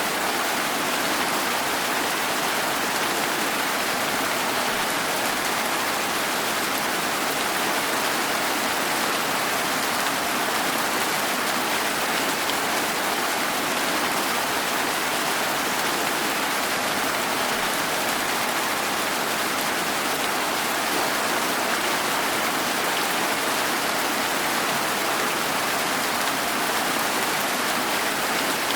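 Steady, even rain falling on surfaces, a continuous hiss with no individual drops or thunder standing out.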